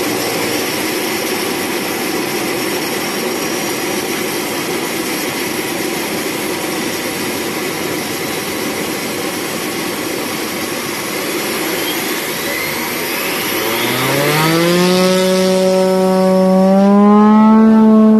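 Air Tractor AT-502's PT6A turboprop engine and propeller running steadily. About 13 seconds in, the pitch climbs in steps as power comes up, then holds at a higher, louder tone.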